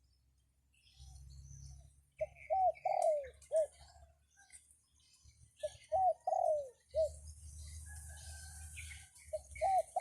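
A dove cooing: three phrases, each a quick run of four or five short, rounded coos, one of them drawn out and falling. Faint chirps of other small birds, and low wind rumble on the microphone in between.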